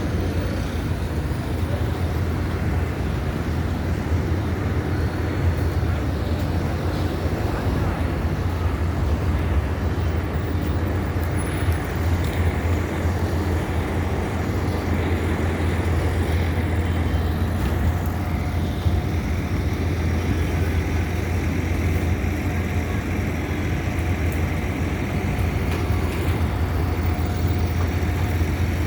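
Steady city street traffic noise: vehicles running past in a continuous low rumble.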